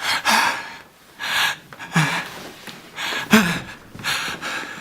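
A man breathing hard in heavy, noisy gasps, about one a second, several with a short voiced catch, as if panicking and out of breath.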